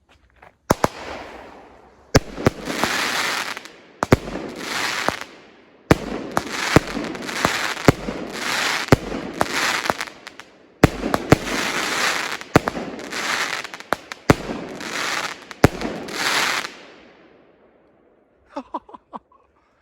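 Pyro King 'Done Deal' 200-gram consumer firework cake firing: a long run of sharp bangs, each trailed by about a second of fading hiss, for about sixteen seconds before stopping.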